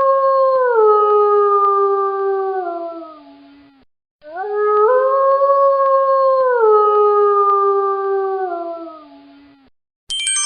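A howl used as a notification tone, played twice; each howl lasts about five seconds. Each one steps up in pitch, holds, and then falls in stair-like steps to a low ending. Just before the end a bright ringing chime begins.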